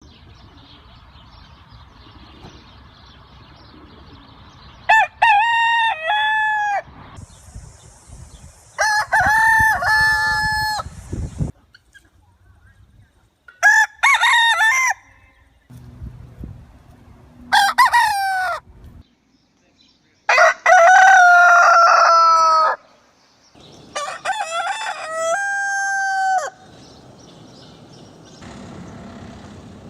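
Roosters crowing one after another: six separate cock-a-doodle-doo crows, each one to two seconds long, the first coming about five seconds in after a stretch of low background noise. The crows come from different birds and recordings, with the background changing abruptly between them.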